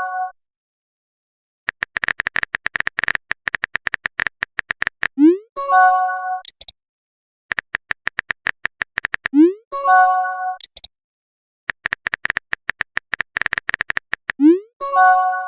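Chat-app sound effects in a repeating cycle: a run of rapid keyboard-typing clicks, then a short rising whoosh and a brief electronic chime as each message is sent, three times over.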